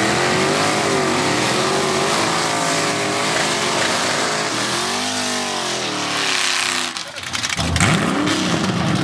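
Two drag-racing cars, a Pontiac Trans Am and a Chevrolet Nova, doing burnouts: engines held at high revs with the pitch rising and falling while the rear tires spin. The engine sound drops off sharply about seven seconds in, then picks up again.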